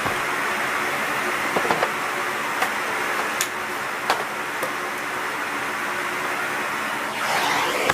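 Miele C2 Compact / S6 cylinder vacuum cleaner with its 2000 W motor running steadily, with a series of sharp clicks and knocks in the first half. Near the end a louder rush of air swells, then the sound drops suddenly.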